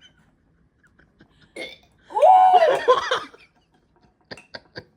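A person's loud, drawn-out throaty vocal sound lasting about a second, its pitch rising and then falling, as a reaction while tasting a strongly flavoured snack. Three short sharp clicks follow near the end.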